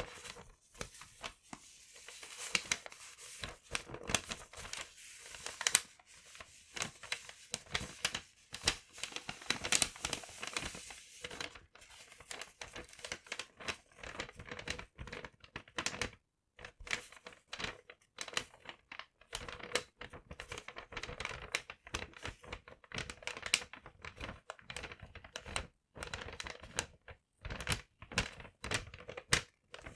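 Paper being crumpled and handled close to the microphone: a dense, irregular run of crackles and rustles, with some tearing.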